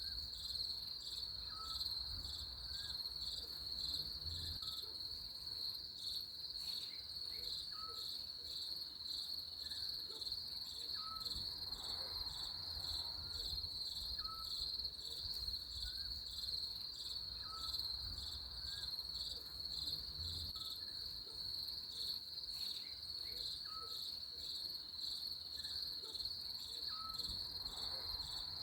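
Crickets chirping in a continuous high, finely pulsing chorus. Short faint notes recur about every two seconds underneath.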